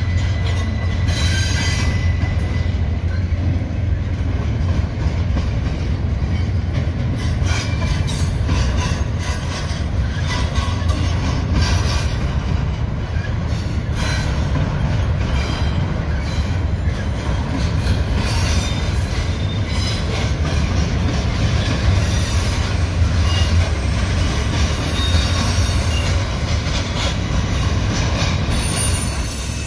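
Double-stack intermodal freight train's well cars rolling past, a loud steady rumble of steel wheels on rail with scattered clacks and brief wheel squeals.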